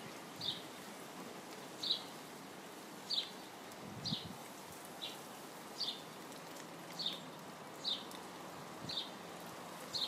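A small songbird chirping repeatedly, one short high chirp about every second, over a steady hiss of rain.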